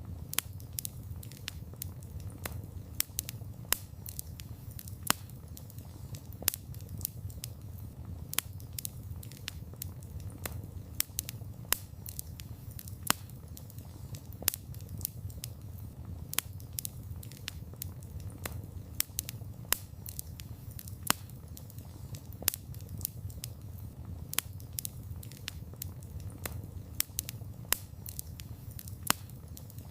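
Wood fire crackling, with a steady low rumble of burning and frequent sharp snaps and pops of burning wood, several a second, a few louder than the rest.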